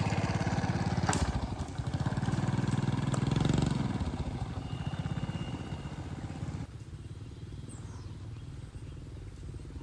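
A small engine running steadily with a fast pulsing beat, dropping to a quieter level about two-thirds of the way through.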